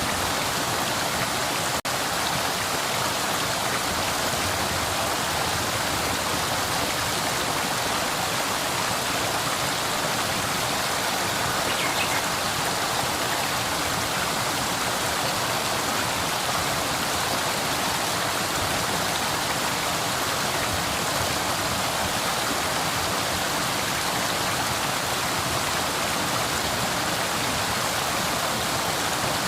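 River water flowing, a steady even rush with most of its sound in the middle and upper range. A very brief dropout comes just under two seconds in.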